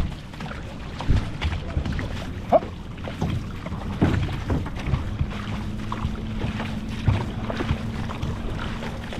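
Wind buffeting the microphone over the splash and rush of water from an outrigger canoe being paddled, with paddle strikes about every second or so.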